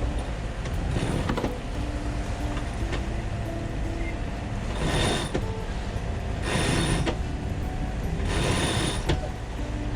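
A line being eased under load on a sailboat winch and blocks, running out in three short bursts about two seconds apart, each with a thin squeal, over a steady rush of wind and water.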